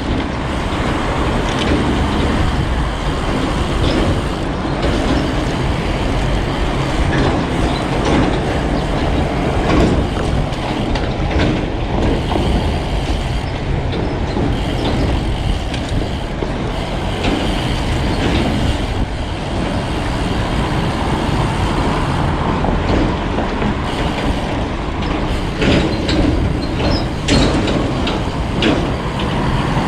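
Steady wind buffeting and tyre rolling noise from riding a road bike, with a few brief rattles and clicks near the end.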